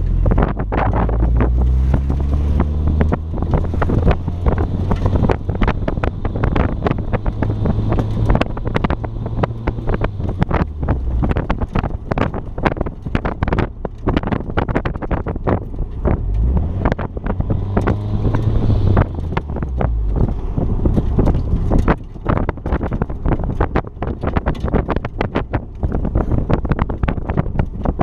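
Car engine running and changing pitch as it revs up and down during an autocross run, with heavy wind buffeting on the microphone.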